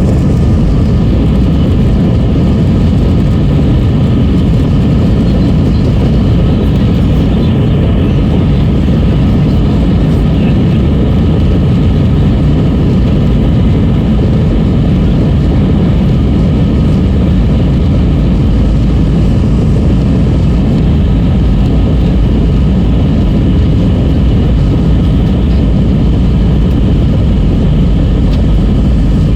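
Jet airliner engines at take-off thrust, heard from inside the cabin as a loud, steady low rumble with a faint engine whine above it.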